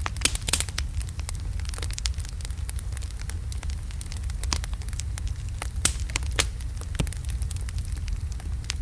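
Wood fire burning in a fireplace: burning logs crackling and popping at irregular intervals over a steady low rumble of the flames, with a brief cluster of sharper pops about half a second in.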